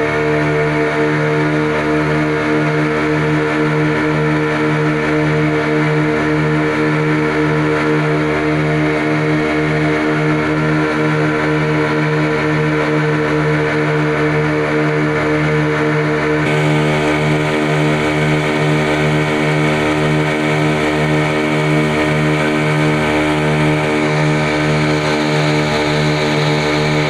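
A passenger boat's twin engines running steadily at cruising speed: a loud, even drone with a faint regular pulsing underneath. About two-thirds of the way in, a rushing hiss rises over it.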